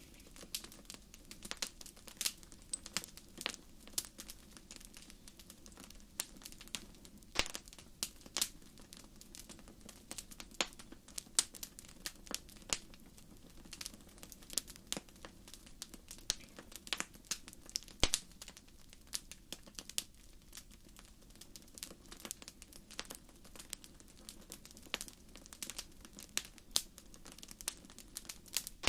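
Wood fire crackling in a fireplace: dense, irregular sharp pops and snaps, a few much louder than the rest, over a faint steady low rush.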